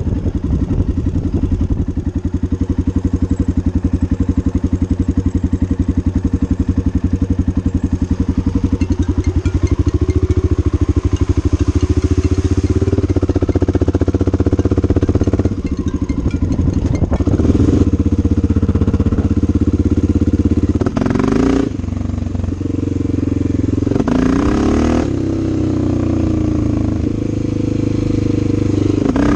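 Honda XR650L's single-cylinder four-stroke engine running, freshly rebuilt with a new timing chain and head gasket. It holds a steady, even beat for the first several seconds, then the engine speed rises and falls several times.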